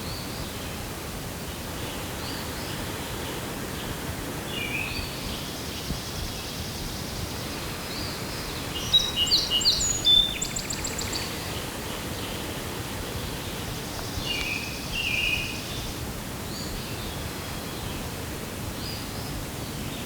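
Wild birds singing and chirping over a steady faint outdoor hiss, with the loudest run of chirps about halfway through and a shorter phrase about three quarters of the way through.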